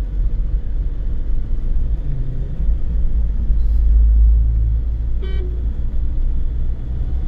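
Car driving along a road: steady low rumble of engine and tyres, swelling for a moment, with a brief horn toot about five seconds in.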